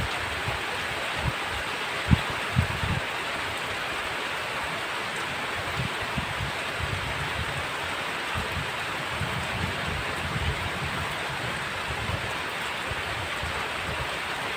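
Heavy rain falling in a steady, even hiss, with scattered short low thuds, the sharpest about two seconds in.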